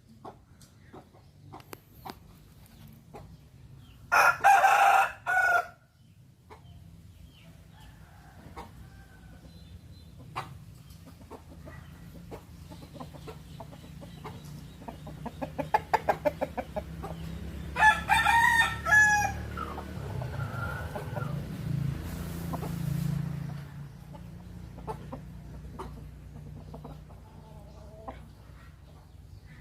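Roosters crowing, twice: a loud crow about four seconds in and another about eighteen seconds in, each lasting a second or two, with softer clucking between them. A quick run of sharp ticks comes just before the second crow, over a steady low hum.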